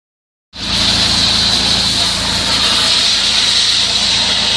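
Engine-driven high-pressure sewer jetter running: a steady engine and pump hum under a loud hiss of high-pressure water. It cuts in suddenly about half a second in.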